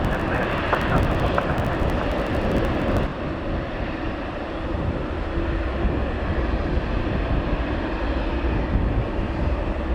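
Jet airliner engines running with a steady low rumble. A crackly hiss on top cuts off about three seconds in.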